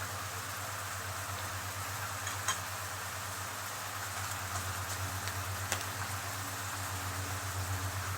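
Seafood cooking in oil in a frying pan, a steady sizzle, with a low hum underneath. Two faint clicks come about two and a half seconds and nearly six seconds in.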